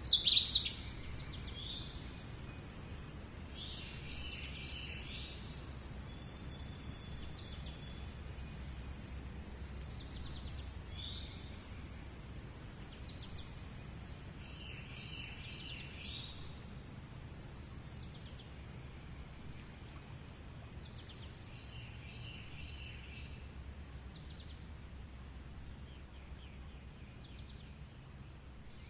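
Several birds chirping and singing in short calls and trills, one loud call in the first second, over a steady low rumble of background noise.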